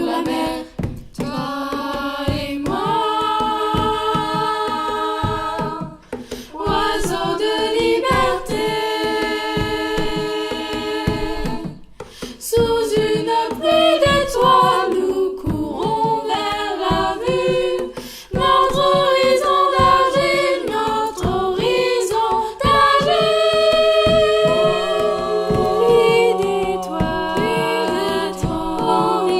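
Young voices singing a cappella in close harmony, holding chords that change every second or two over a steady percussive beat.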